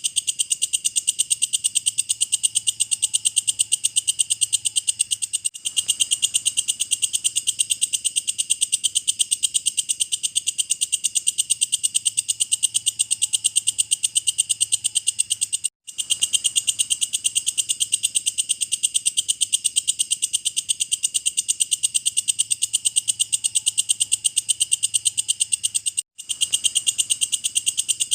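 Walang kecek (belalang kecek) katydid calling: a steady, rapid train of high, dry pulses repeated evenly, with short breaks about every ten seconds.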